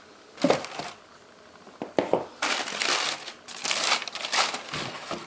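Packaging being handled and crinkling: one short burst about half a second in, then dense, near-continuous crinkling from about two seconds on.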